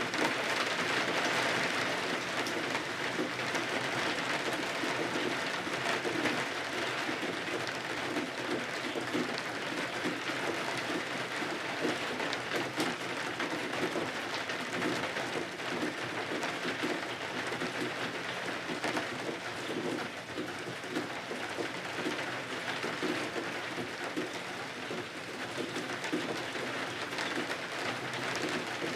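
Steady rain falling against the windows: an even, unbroken hiss scattered with small drop ticks.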